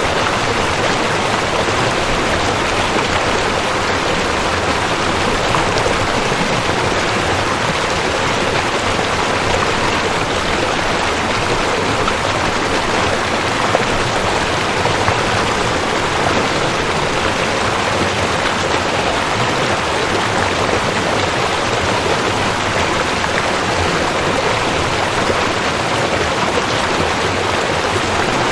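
Rushing creek water flowing over rocks: a steady, dense rush with no breaks.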